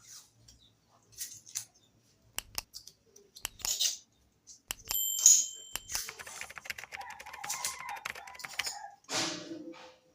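Small hard metal objects handled on a hard surface: scattered clicks and knocks, one bright ringing metallic clink about five seconds in, then a few seconds of rapid scraping and rattling.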